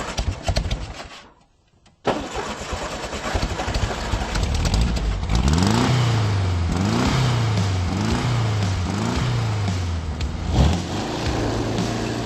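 A car engine catches and runs, then is revved in about five quick blips, roughly one a second, each rising and falling in pitch.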